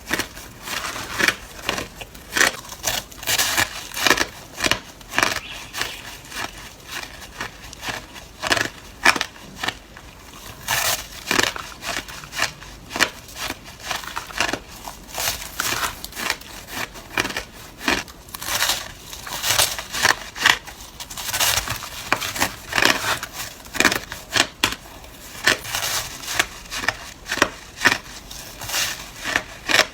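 Ice being bitten and crunched close to the microphone: a run of sharp, crisp crunches at an uneven pace of about one or two a second.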